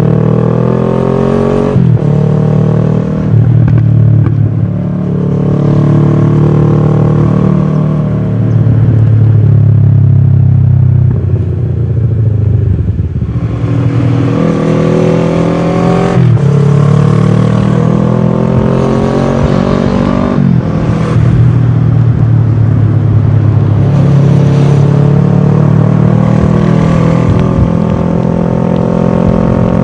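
Kawasaki ER-6f's parallel-twin engine through a full Akrapovic exhaust, heard from on the bike while riding. Its pitch climbs with the revs and drops sharply at upshifts about two, sixteen and twenty seconds in, and it eases off briefly around thirteen seconds before pulling again.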